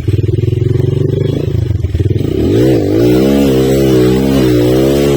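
Small motorcycle engine running with a rapid firing pulse. About two and a half seconds in the revs rise, and it then holds at a higher, fairly steady speed.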